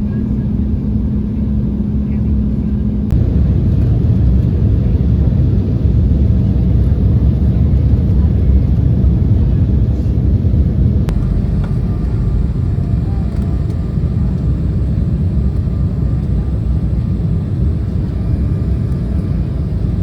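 Steady low rumble of a jet airliner's engines and airflow heard inside the cabin. It grows louder about three seconds in, then eases back near the middle.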